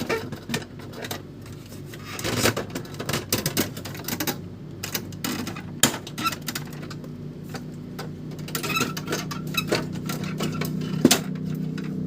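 Irregular clicks, taps and knocks of hard plastic parts and screws being handled while an Epson L310 inkjet printer is taken apart. A steady low hum joins in about halfway.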